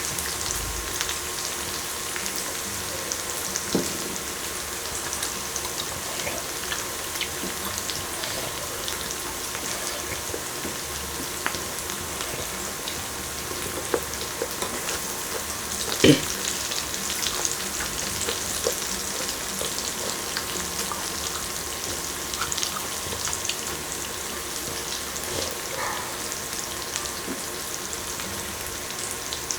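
Beef small intestine (gopchang) sizzling on an electric grill: a steady hiss with constant small crackles and pops. There is a sharp click about halfway through.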